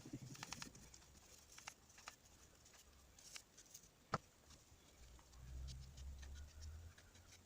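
Near silence with scattered faint clicks and one sharp click about four seconds in, over a faint low hum in the second half.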